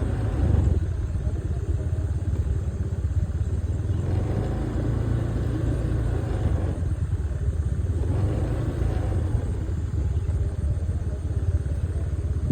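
A vehicle travelling along a road: a steady low rumble of engine and road noise.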